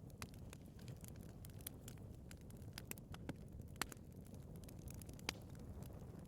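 Wood fire burning in a fireplace: irregular sharp crackles and pops over a steady low rumble of flames, with a couple of louder pops near four and five seconds in.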